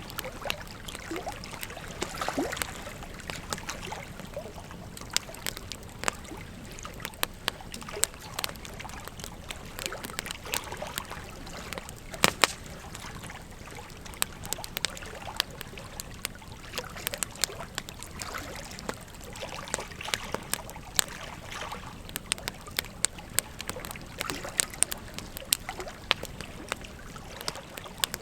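Wood fire crackling, with irregular sharp pops and snaps, over the steady rush of a flowing river. The loudest pops come about halfway through.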